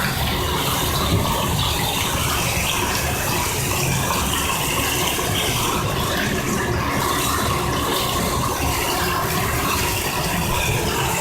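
Water running steadily from a tap as a dog is rinsed in its bath.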